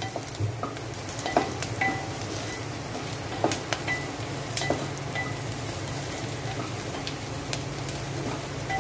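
Chopped onions and green chillies frying in oil in a pot on a medium gas flame, with a steady sizzle, while a wooden spatula stirs them, scraping and knocking against the pot now and then. The onion is partly cooked and softening.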